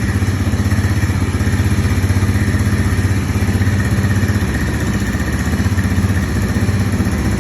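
Big Bull 200cc quad bike's CVT engine idling steadily just after being started, with an even, rapid pulsing.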